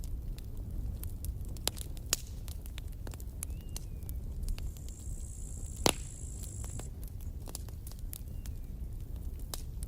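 Wood campfire crackling, with irregular sharp pops over a steady low rumble of the flames. A high hiss rises around the middle, and the loudest pop comes about six seconds in.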